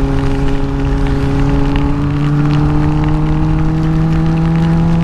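Motorcycle engine running at a steady cruise, its pitch rising slowly as it gently accelerates, with heavy wind rumble on the helmet microphone.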